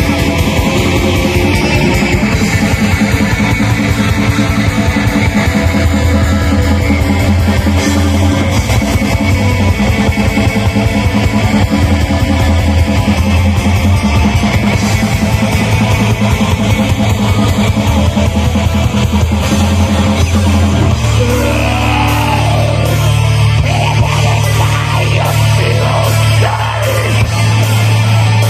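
A metal band playing live: loud distorted electric guitars, bass and a drum kit pounding out a fast beat. About two-thirds of the way through, the riff gives way to a held low chord with a guitar melody over it.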